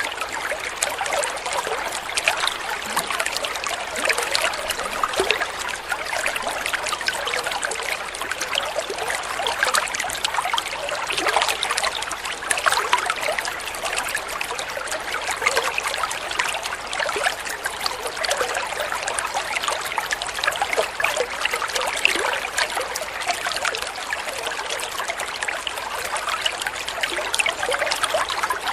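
Water flowing and trickling steadily, with a busy patter of small splashes and gurgles.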